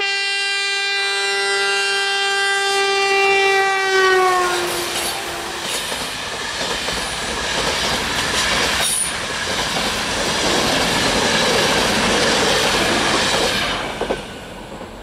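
Passenger train's horn sounding one long blast that drops in pitch about four seconds in as the locomotive passes, followed by the rush and clatter of its coaches going by, which stops suddenly about fourteen seconds in.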